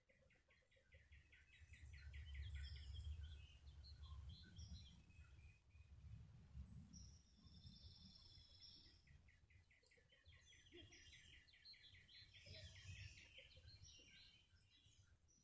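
Faint songbirds singing: a fast trill of repeated notes at the start and again about two-thirds of the way through, with higher chirps in between, over a low rumble of wind or distant noise.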